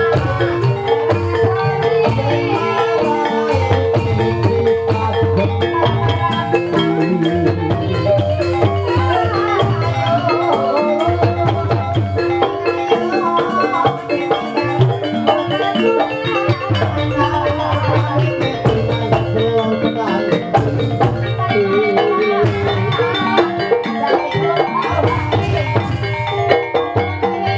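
Gamelan-style music for an ebeg dance: tuned metal and bamboo mallet instruments playing interlocking melody over a steady, repeating drum beat.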